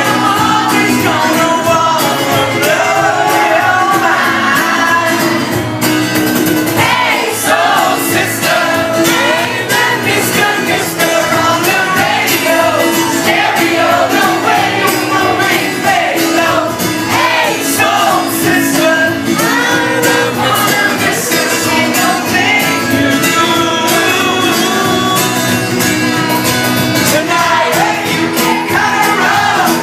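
Live pop-rock band playing with lead singing over a steady beat, loud throughout.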